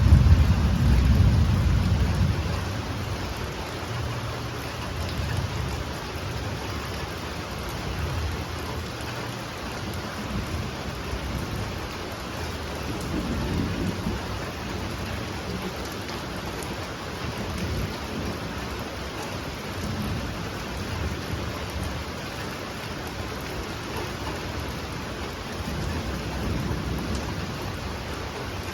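Heavy rain falling steadily with a constant hiss. A loud low rumble peaks in the first two seconds, and fainter low rumbles rise again about halfway through and near the end.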